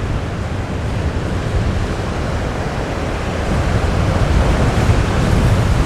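Strong wind buffeting the microphone over the rush of surf and breaking waves, a steady noise that grows a little louder about halfway through.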